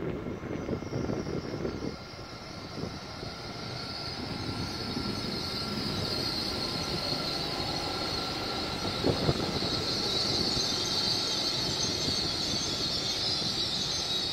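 LNER Class 801 Azuma electric train running along the platform, growing louder as its front comes up and its carriages pass close by. A steady high hiss and faint whining tones sit over the low rumble of the wheels, with a single sharp knock about nine seconds in.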